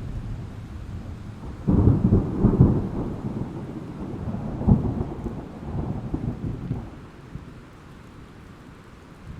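A thunderclap that starts suddenly, rumbles with a couple of sharper cracks and dies away, over a steady hiss of rain.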